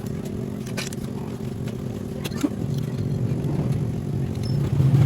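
A motor vehicle engine, most like a motorcycle's, running steadily and growing louder near the end, with a couple of sharp clicks.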